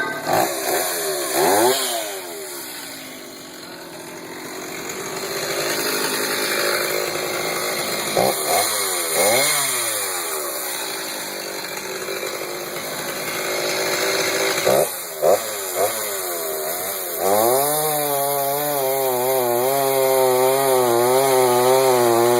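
Two-stroke chainsaw revved in several quick throttle blips, then held at full throttle in a long steady run for the last few seconds.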